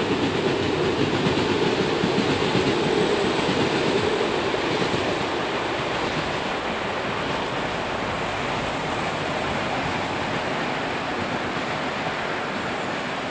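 Passenger train running along the track, loudest in the first few seconds and fading slowly as it moves away, over the steady rush of a river.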